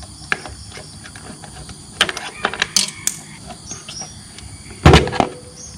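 Clicks and knocks of a plastic body panel being unclipped and taken off a Honda RS150R motorcycle, with a louder knock about five seconds in.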